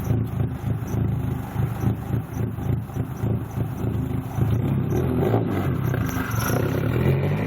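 Turbocharged 2.4-litre four-cylinder engine of a built Dodge SRT-4, fitted with a Precision 6266 turbo on a tubular exhaust manifold, running with an uneven, pulsing idle; the note steadies past the middle and rises in revs near the end.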